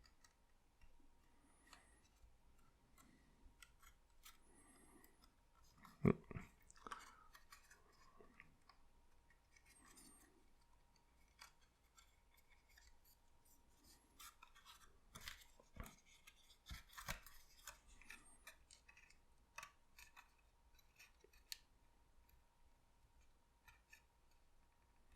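Faint handling of small paper parts: scattered light clicks and paper rustles, with a sharper click about six seconds in and a cluster of clicks from about fifteen to eighteen seconds.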